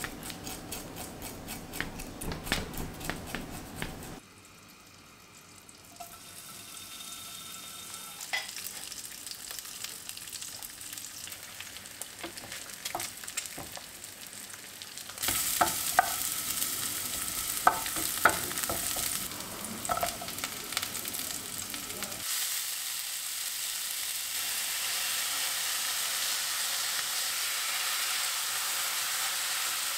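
Plastic wrap crinkling as a raw salmon fillet is lifted from its tray, then salmon and an egg sizzling in a non-stick frying pan, the sizzle louder from about fifteen seconds in. Near the end a spatula tosses soba noodles, carrot and mushrooms in the sizzling pan.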